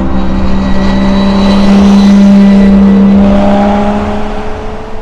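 Lamborghini Miura P400S's V12 engine running at a steady pitch, growing louder to a peak about two seconds in and then fading away.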